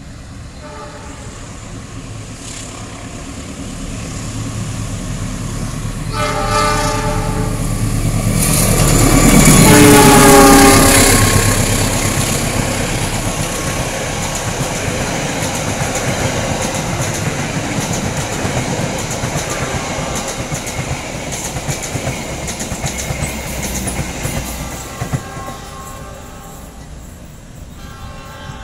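A GE CC206 diesel-electric locomotive with a passenger train passes at speed. Its horn sounds as it approaches, then a long blast that drops in pitch as it goes by, loudest about ten seconds in. The coaches then rumble and clatter over the rail joints, and a horn sounds faintly again near the end.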